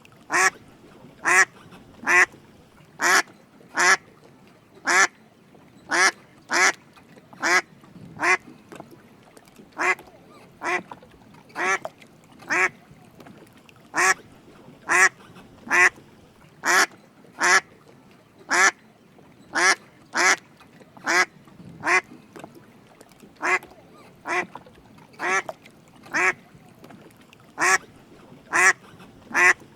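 Drake mallard giving short quacking calls over and over, about one a second, sometimes in quick pairs.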